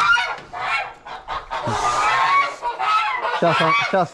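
Domestic geese honking over and over, agitated calls raised in alarm at a dog close to a sitting goose's nest.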